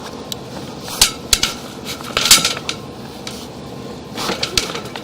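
Sewer inspection camera gear being handled as the push cable is fed into the line: a few sharp knocks and clatters, about a second in, again around two seconds and near four and a half seconds, over a steady background noise.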